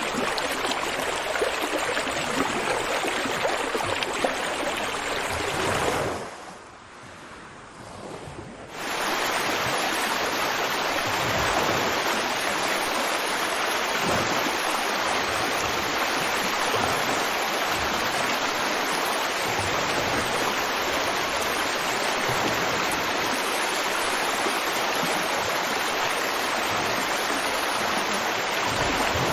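River water flowing with a steady, continuous rush. About six seconds in it drops away to a much quieter wash for a couple of seconds, then comes back at full level.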